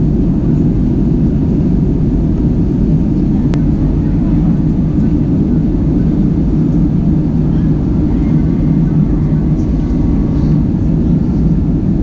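Steady low rumble of an Airbus A320's cabin noise, engines and airflow, heard from inside the passenger cabin, with one sharp click about three and a half seconds in.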